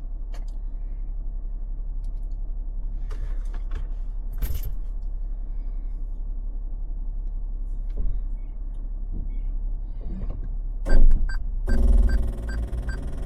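Toyota 4Runner engine running low and steady while the SUV is shifted into four-wheel drive to climb a slippery incline, with a loud clunk about eleven seconds in and a quick run of evenly spaced ticks just after.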